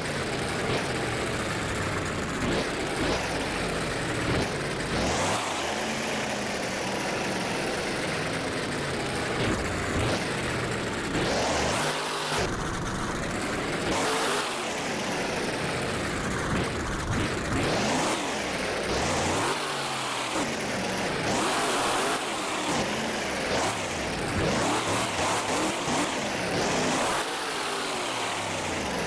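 Monster truck engine revving hard again and again during a freestyle run, its pitch rising and falling every second or two over a constant loud roar.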